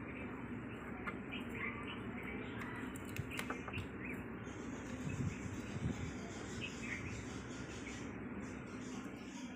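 Small birds chirping now and then over steady background noise. A few clicks come a little past three seconds in, and two low knocks a little past five seconds in, as hands work at the fuse and wiring under a motorcycle seat.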